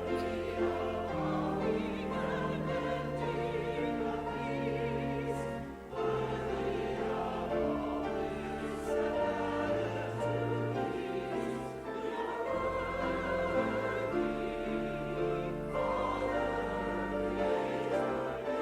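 Sacred music: voices singing with vibrato over sustained low instrumental notes that change every second or two.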